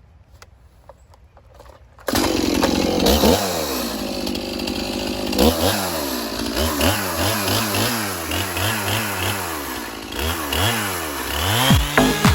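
After about two seconds of quiet, a Stihl MS 291 chainsaw comes in loud, its engine pitch rising and falling over and over as the throttle is worked while cutting.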